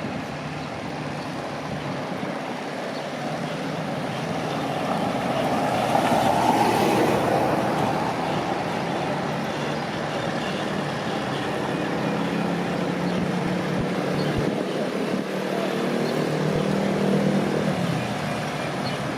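Road traffic: a vehicle passes loudly about six to seven seconds in, then a truck engine runs with a steady pitched hum from about twelve seconds until it fades near the end.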